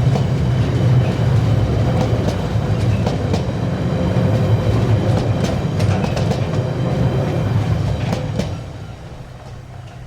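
A train passing at close range: a steady low rumble with repeated clicks of wheels over rail joints, dropping away about eight and a half seconds in as the train goes by.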